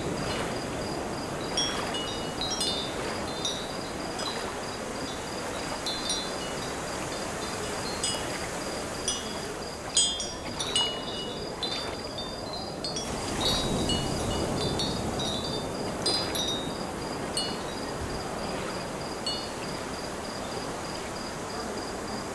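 Light metallic chimes tinkling irregularly in short, high notes over a steady hiss of wind.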